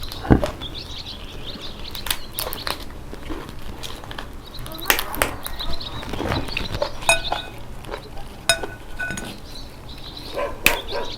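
Red snow crab shells cracked and picked apart at close range: sharp cracks and clicks every second or so, with eating sounds in between.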